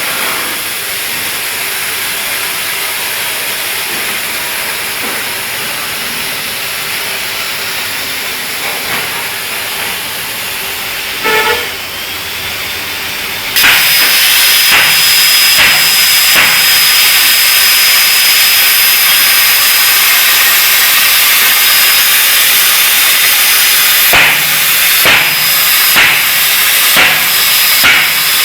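CNC plasma cutter cutting steel sheet: a loud, steady hiss of air and arc that jumps louder about halfway through, picking up a thin high whine, with scattered crackles and pops, most of them near the end.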